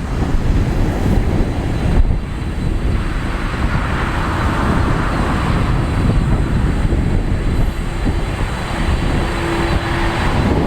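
Boeing 787-9 airliner's jet engines at takeoff power as it departs: a steady, heavy rumble with a hiss that swells in the middle.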